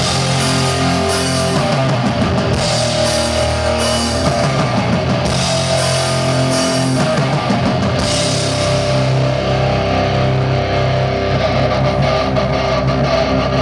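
Live rock band playing loud, with heavy electric guitar over a drum kit.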